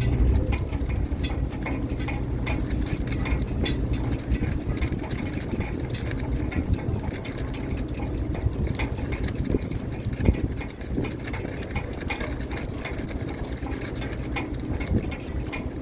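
Fishing boat's engine running steadily, with scattered light clicks and one sharper knock about ten seconds in.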